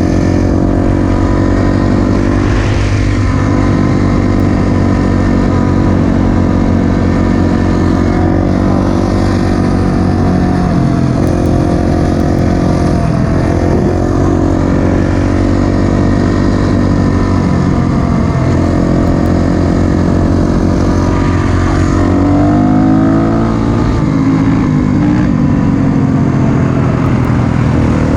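Four-stroke single-cylinder dirt bike engine running under throttle, its pitch rising and falling as the rider works the throttle, with a clear rev-up about twenty-two seconds in.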